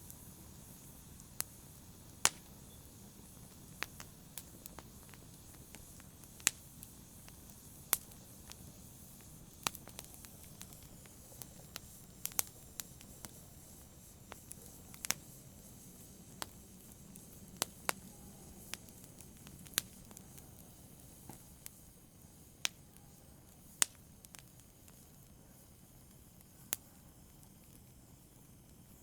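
Wood fire crackling in a fireplace: sharp pops and snaps at irregular intervals over a low steady hiss, thinning out near the end.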